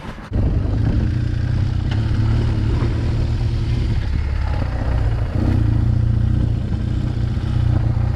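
BMW R 1200 GS flat-twin boxer engine with an SC Project exhaust being started: a brief starter crank, then it catches about a third of a second in and runs at a steady idle, with a slight change in its note a little after five seconds.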